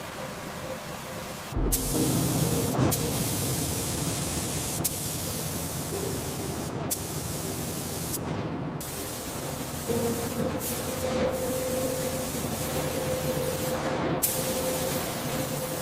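Steady hissing noise like a spray, growing louder suddenly about a second and a half in. It breaks off and restarts abruptly several times.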